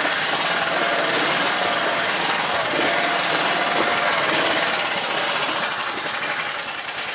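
Homemade karakat's engine running steadily, easing off slightly near the end.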